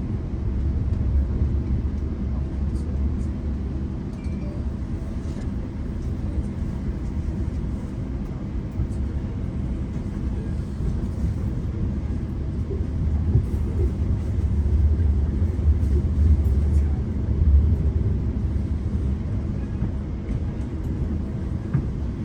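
Low, steady rumble of a diesel-hauled GO Transit commuter train heard from inside the coach, growing a little louder a little past the middle.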